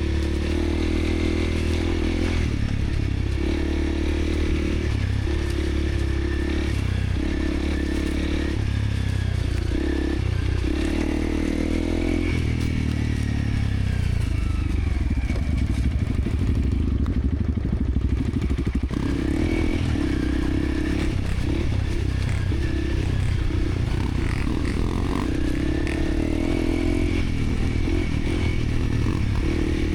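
Dirt bike engine revving hard under heavy throttle on a rough trail, its pitch climbing and dropping again and again with throttle and gear changes. It eases off for a few seconds about halfway through, then pulls hard again, with clattering from the bike over the rough ground.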